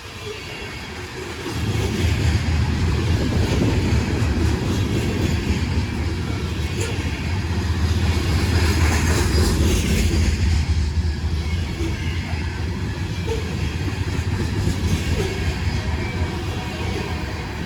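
Freight train rolling past, a steady low rumble that grows loud about a second and a half in and holds.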